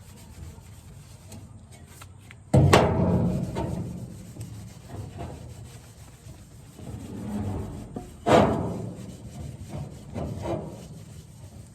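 A shop towel soaked in used engine oil being rubbed over a tool's steel head. There are two sudden louder scrapes, about two and a half seconds and eight seconds in, each fading over about a second.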